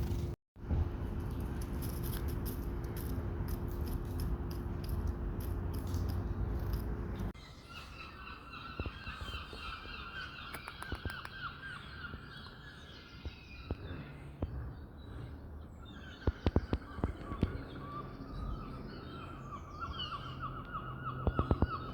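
A steady low rumble with a hum that stops suddenly about seven seconds in, followed by birds calling repeatedly, with scattered clicks.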